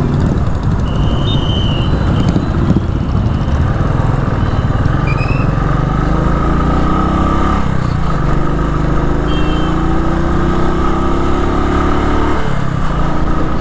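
Royal Enfield Classic 350's single-cylinder engine running under way, heard from the rider's seat. Its note climbs, drops back about eight seconds in, climbs again and drops near the end, as the bike accelerates through the gears.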